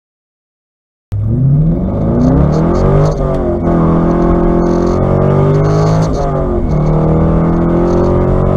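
Chevrolet Corvette C5 Z06's LS6 V8 under hard acceleration, cutting in suddenly about a second in. The revs climb, drop at an upshift about three seconds in and again about six seconds in, then climb again.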